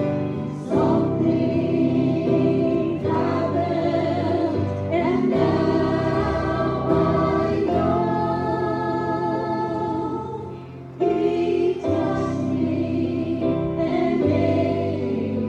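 Group of voices singing a gospel hymn in sustained phrases, with a steady accompaniment underneath.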